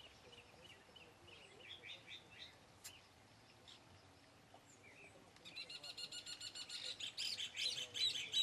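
Birds chirping in short, scattered calls. About five seconds in, a bird starts a rapid run of repeated high chirps that grows louder toward the end.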